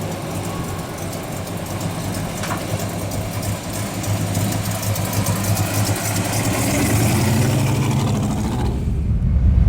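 Classic Pontiac V8 engine running, a steady low rumble that slowly grows louder. Near the end the hiss above it falls away and the low exhaust note takes over.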